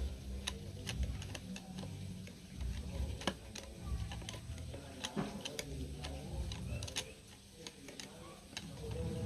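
Irregular light clicks and taps over a low steady hum.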